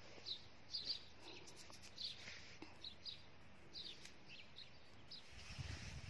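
Faint birds chirping: short, high notes scattered every half second to a second over a quiet outdoor background, with a low rumble near the end.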